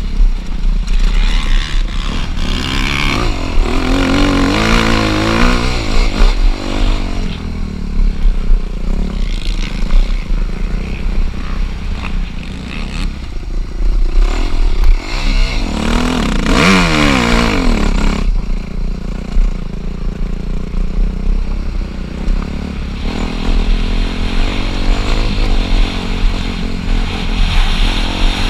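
Dirt bike engines running and revving hard, the pitch climbing and dropping through the gears, with two strong revving passes: one about four seconds in and another from about fifteen to eighteen seconds.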